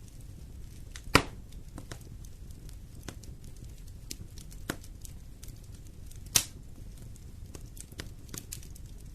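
Wood fire in a fireplace crackling over a low steady rumble, with scattered small snaps and two louder pops, about a second in and about six seconds in.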